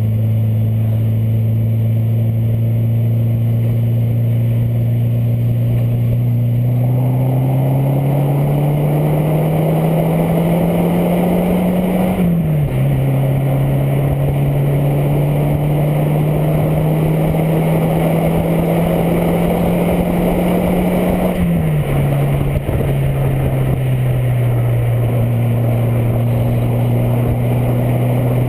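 Peugeot 205 1.9 engine running through an Inoxcar stainless exhaust with a loud, steady drone. The pitch climbs over several seconds, falls suddenly about twelve seconds in, holds steady, then falls twice more near the end.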